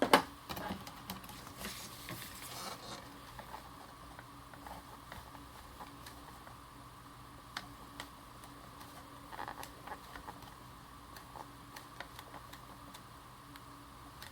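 Bee stamp being inked on an ink pad and pressed onto cardstock: a sharp tap right at the start, a brief scraping rustle about two seconds in, then scattered faint light taps and clicks.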